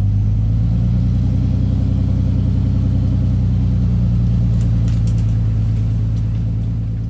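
Diesel engine running steadily at a constant speed, fading out near the end.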